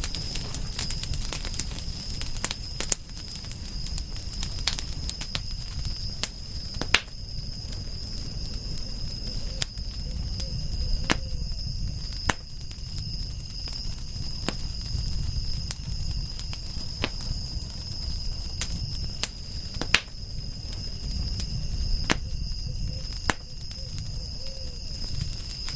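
Wood fire crackling, with sharp pops scattered every second or so over a low rumble from the flames, the loudest pops about 7 and 20 seconds in. A steady high-pitched whine runs underneath.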